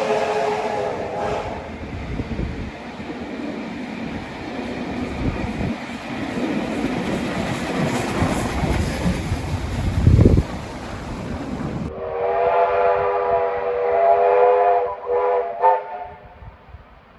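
A passing train sounds a long warning signal on its whistle or horn, then rumbles by with rolling wheel noise and a single thump. A second long blast follows, ending in a few short toots.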